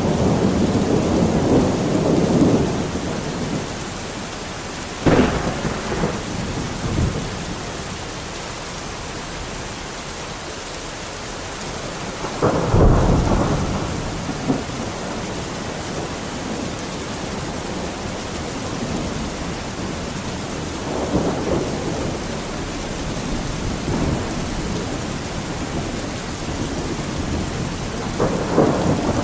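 Steady rain falling during a thunderstorm, with thunder repeatedly breaking through: a sharp clap about five seconds in, the loudest crack about thirteen seconds in, and rolling rumbles at the start, about two-thirds of the way through and near the end.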